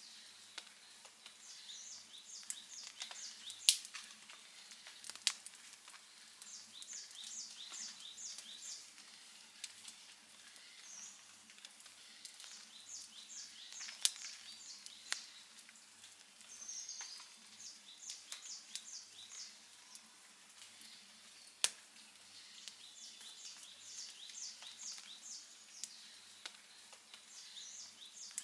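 Wood fire crackling softly, with a few sharp, loud pops spread through it. Under it there is a repeated high chirping that comes in short runs of rapid notes.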